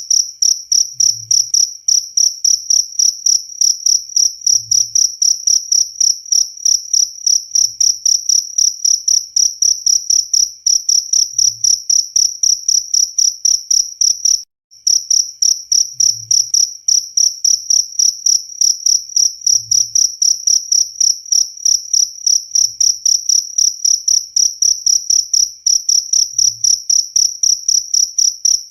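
Cricket chirping continuously in rapid, evenly spaced high-pitched pulses, with a brief break about halfway through.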